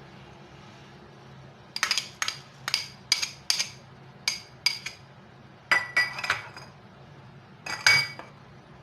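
A spoon clinking against a dish, about a dozen sharp, ringing taps at an irregular pace, starting about two seconds in, typical of stirring or scraping food in a bowl.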